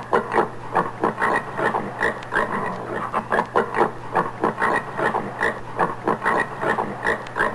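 Common warthog giving a steady run of short grunts, about three a second.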